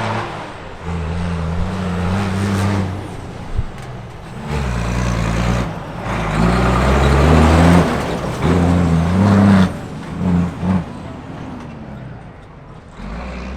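Big diesel engine of a Tatra Dakar rally truck revving hard in repeated bursts, its pitch rising and falling, with two quick blips of the throttle near the end before it settles lower.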